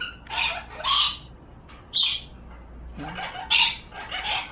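Pet crow giving a series of about six short, harsh, raspy calls, the loudest about a second and two seconds in.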